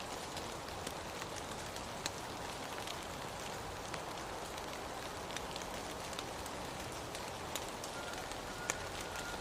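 Steady rain falling, with scattered drops pattering close by. A faint, thin, steady high note comes in near the end.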